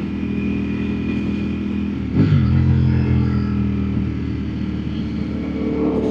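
Ducati naked superbike engine running under way, heard from the rider's seat. Its note holds steady, then dips sharply and picks up again about two seconds in, and gets louder after that.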